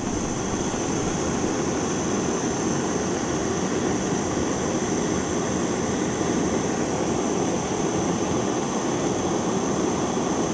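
Canister gas torch burning with a steady roar while it heats a copper pipe joint for soldering.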